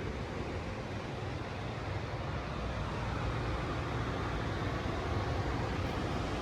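Steady outdoor background noise with a low mechanical hum, like idling machinery or distant traffic, growing slightly louder; no single event stands out.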